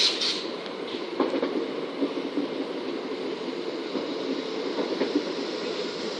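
Class 455 electric multiple unit rolling through the platform with a steady rumble, its wheels giving occasional clicks over the rail joints.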